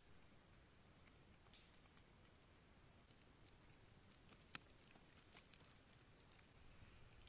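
Near silence with a few faint ticks and two faint, short chirps gliding downward from a bird.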